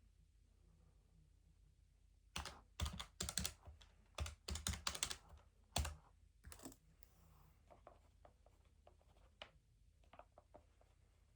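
Keys being typed on in quick runs of clicks. The runs start about two seconds in, and the taps turn sparser and fainter after about seven seconds.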